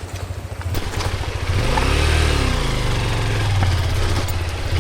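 Honda XR150L's single-cylinder four-stroke engine running; about a second and a half in it revs up and back down, then runs on steadily.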